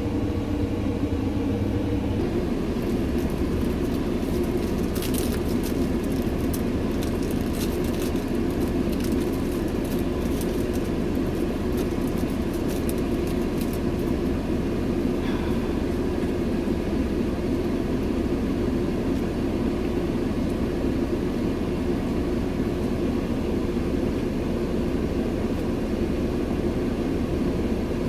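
Steady, unchanging drone of a truck's running engine and cab air, heard from inside the cab.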